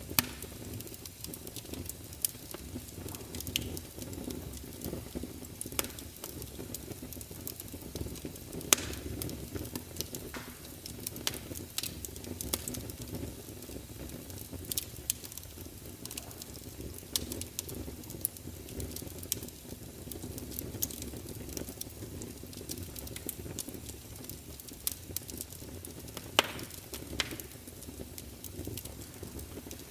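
Wood fire burning, with a steady low rush under scattered sharp crackles and pops. Two pops are much louder than the rest: one about a third of the way in and one near the end.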